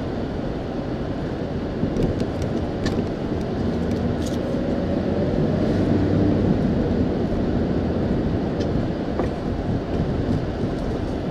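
Ford Expedition driving at low speed, heard inside the cabin: a steady low rumble of engine and tyres on the road, with a few light ticks and rattles.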